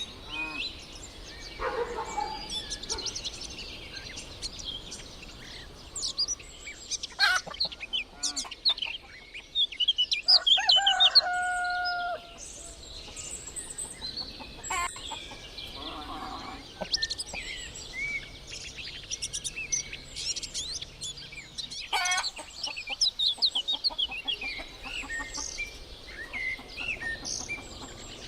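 A rooster crowing once, about ten seconds in, over constant songbird chirping and chickens clucking.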